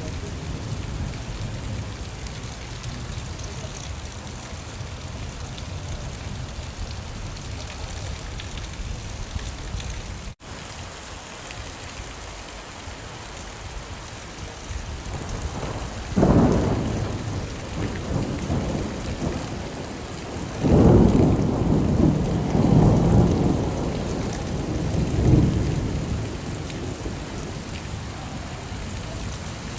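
Steady rain falling, with a sudden low thunder rumble about sixteen seconds in and a longer, louder rolling thunder from about twenty-one to twenty-six seconds. The rain sound drops out for an instant about ten seconds in.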